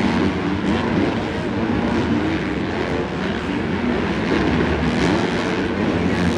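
Several supercross dirt bikes racing at once, their engines revving and overlapping in a continuous, wavering buzz.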